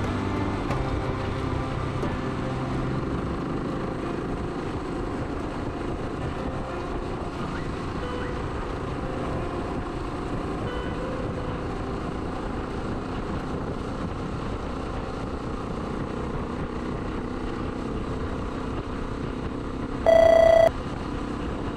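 Suzuki DR125S single-cylinder four-stroke engine running under way, with steady wind and road noise. A short, loud beep about a second before the end.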